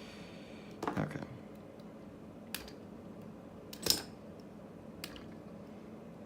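Scissors clicking sharply a few times while lightly scoring and stripping the insulation off thin red and black power wires, the loudest snip about four seconds in.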